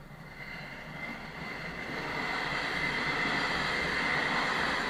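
Regional passenger train passing over a level crossing. Its running noise swells over the first two seconds and then holds steady, with a steady high tone above it. It is heard from inside a car's cabin.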